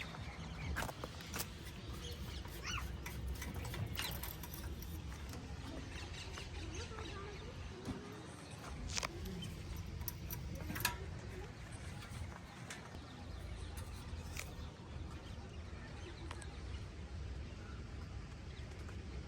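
Birds chirping now and then over a low steady rumble, with a few sharp clicks.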